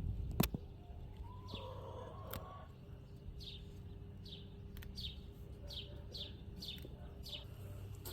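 Small birds chirping: a run of short, quick, downward-sliding chirps, repeated about two or three times a second through the middle of the stretch. A single sharp click comes about half a second in.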